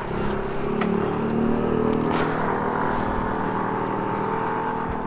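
Vehicle engine running steadily, rising a little in pitch over the first second or so and then holding an even pitch.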